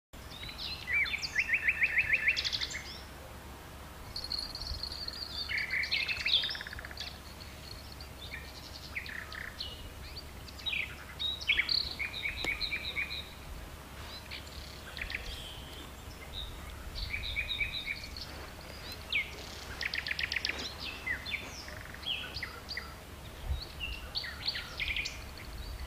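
Several songbirds singing and calling, a mix of fast trills and short chirps, over a steady low rumble.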